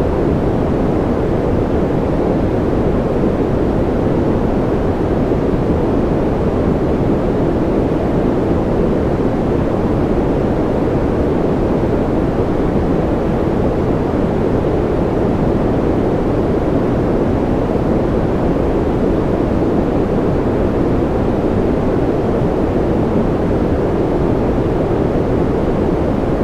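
Steady sleep-noise track: a constant, deep rushing noise with most of its weight low and little high hiss, closer to brown noise than to bright white noise. It does not change, with no drops, drips or separate sounds.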